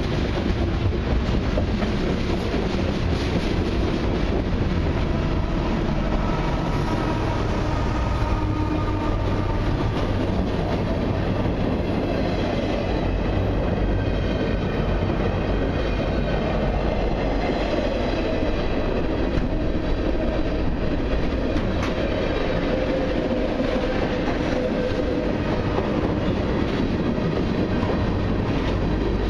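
Loaded freight cars of a long mixed freight train rolling past close by: a steady rumble and clatter of steel wheels on the rails. Faint high ringing tones come and go in the middle.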